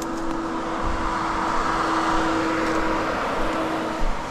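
ATV engine running steadily, swelling a little in the middle and easing off near the end.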